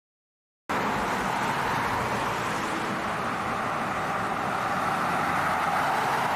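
Steady motor vehicle and road noise, starting abruptly less than a second in.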